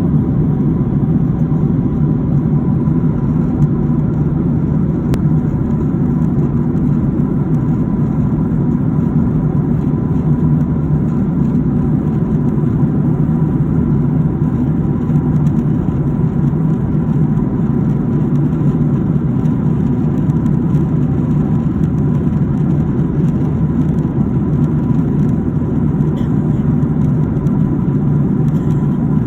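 Steady airliner cabin drone at cruise: engine and airflow noise heard from inside the cabin, loud and unchanging, with a faint thin steady whine above it.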